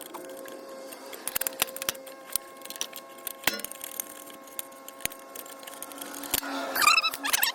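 Small metal parts and tools clicking and rattling while a lawnmower carburetor is taken apart by hand, with a faint steady hum behind. A brief high warbling sound comes near the end.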